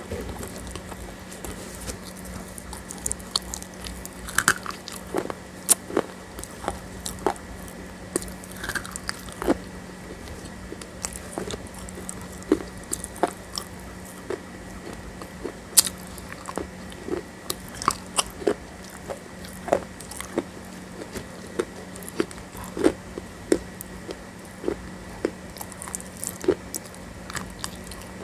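Close-miked eating of a thick, sticky paste: irregular wet mouth clicks and lip smacks while chewing, a few to several a second, over a steady low electrical hum.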